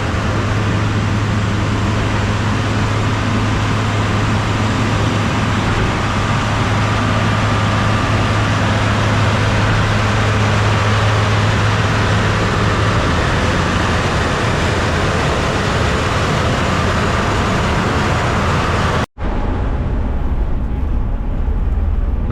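Steady running noise of a vehicle, with a strong low engine hum. About nineteen seconds in it cuts off abruptly and gives way to a similar but duller running noise.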